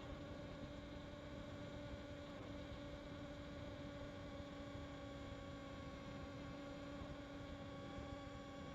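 A steady hum at one constant pitch, with a low rumbling noise beneath it.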